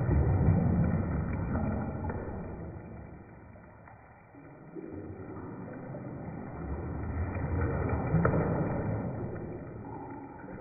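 Bathwater sloshing as waves are pushed along a bathtub. It swells loudest at the start and again about eight seconds in, with a few light clicks.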